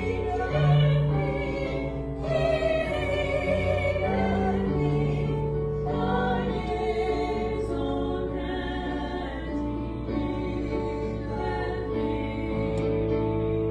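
Music: a choir singing a sacred piece with instrumental accompaniment.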